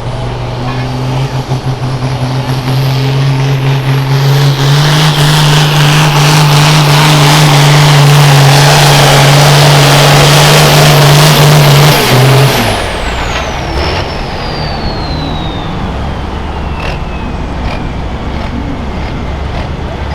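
Diesel farm pulling tractor at full throttle under load, running steadily and growing louder for about twelve seconds, then the throttle is cut suddenly at the end of the pull. After the cut a high whistle falls slowly in pitch as the turbocharger spools down.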